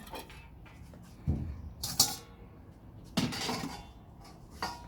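Hand tools knocking, clicking and scraping against the hive box and bowl: a dull knock, a sharp click, a longer scrape with a faint ring, then another click.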